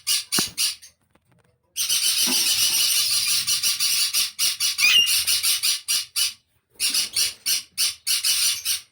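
Alexandrine parakeet squawking: loud, harsh calls repeated rapidly, about five a second, in runs broken by two short pauses.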